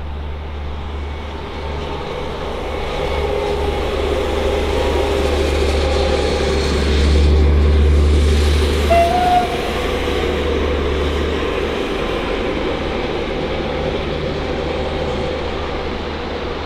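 Stadler passenger train passing close by: a steady low drone and rumble that builds to its loudest about seven to nine seconds in, then eases off. A brief high tone sounds about nine seconds in.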